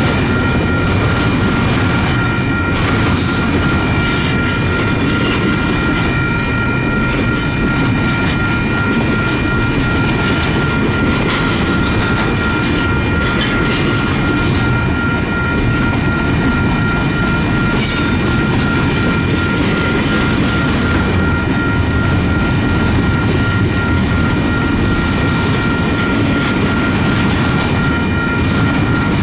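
Double-stack intermodal container train rolling past: a steady rumble of steel wheels on rail with occasional clicks, and thin, steady high-pitched tones running over it.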